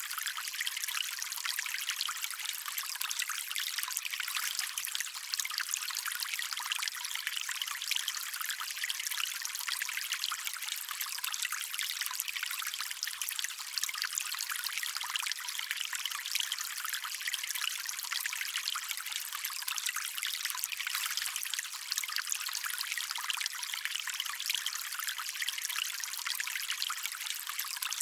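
Stream water trickling and running over stones, a steady, even hiss-like babble made of many small splashes, with almost no low rumble.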